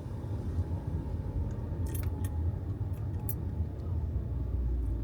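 Steady low road and engine rumble inside a moving SUV's cabin, with a few light clicks or rattles about two to three seconds in.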